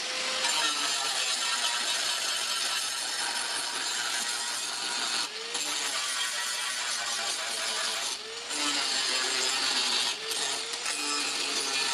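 Steel sickle blade being sharpened: a steady scraping noise that breaks off briefly three times.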